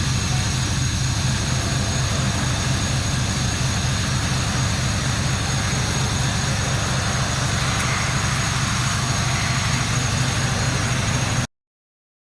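Toyota 4GR-FSE V6 engine idling steadily on an engine test stand, with an even pulsing beat; the sound cuts off suddenly near the end.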